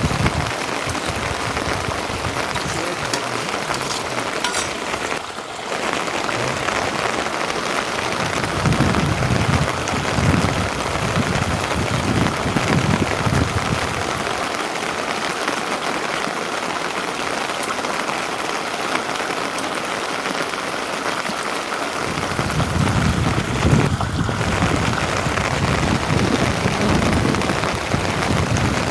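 Steady rain falling, an even hiss throughout. A low rumble rises under it about eight seconds in and again in the last third.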